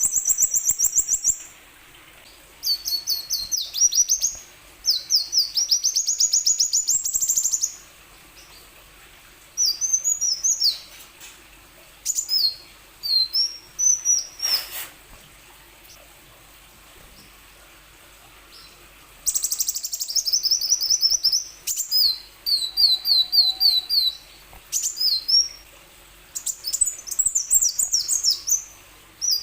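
A kolibri wulung sunbird singing: bursts of rapid, high-pitched chirps and stuttering trills, each phrase lasting one to five seconds with short pauses between, the longest run coming about two-thirds of the way through.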